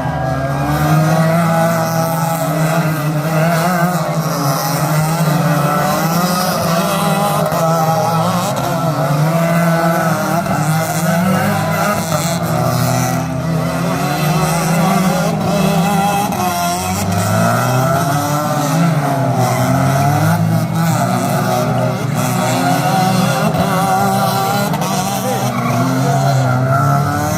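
Stunt cars' engines revving up and down, with tyres squealing and skidding as the cars drift.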